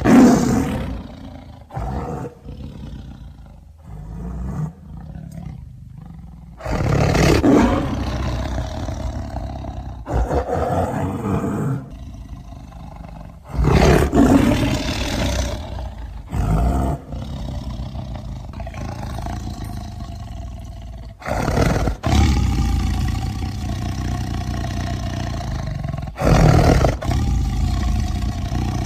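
A run of big-cat roars and growls, one clip after another. Each starts suddenly and loud, then trails into a long, rough, low growl.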